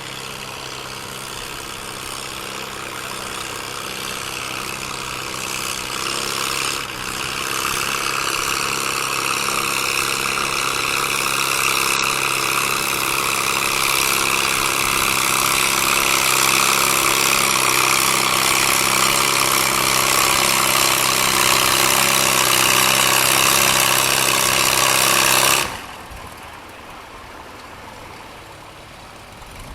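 Gasoline farm tractor engine running at a steady, unchanging speed while pulling the sled, growing louder over about twenty-five seconds, then cutting off suddenly a few seconds before the end.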